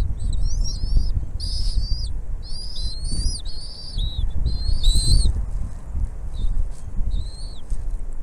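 Bald eagle calling: a quick run of high, piping chirps that rise and fall slightly, dense for about five seconds and then two more near the end, over a steady low rumble.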